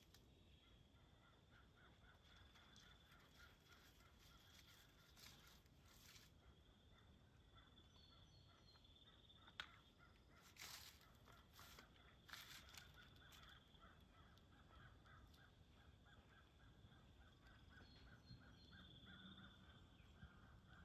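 Faint woodland ambience: a steady high thin buzz and a faint rapid pulsing chirr run throughout, with short scattered rustles a few times.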